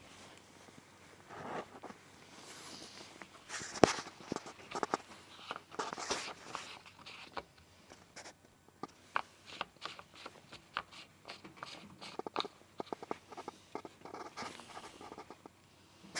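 Irregular clicks and knocks, with the loudest knock about four seconds in, mixed with short rustling noises.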